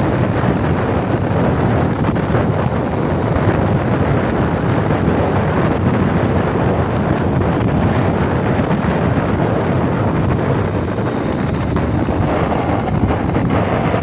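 Wind buffeting the microphone in a loud, steady rush, with Lake Michigan waves breaking on the shore underneath.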